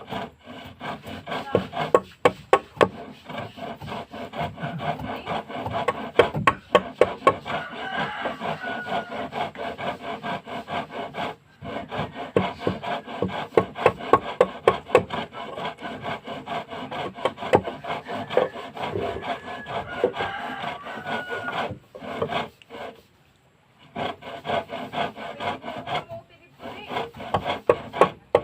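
A hand tool working wood in repeated rubbing, scraping strokes, broken by a few short pauses.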